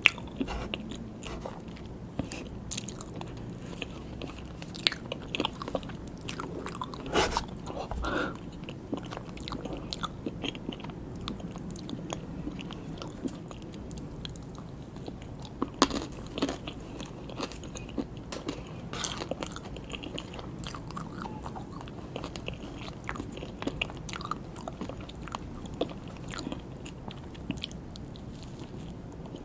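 Close-miked biting and chewing of soft mini cakes with buttercream, with frequent short, irregular clicks and mouth noises.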